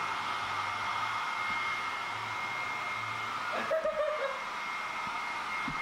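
Steady whirring of an electric motor blowing air, with a constant high whine running through it. A brief wavering voice-like sound comes about two-thirds of the way through.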